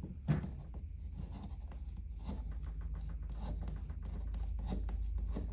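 Utility knife or box cutter slicing along the pleated paper element of an aircraft oil filter: irregular scratchy cutting strokes, with a sharper click about a third of a second in.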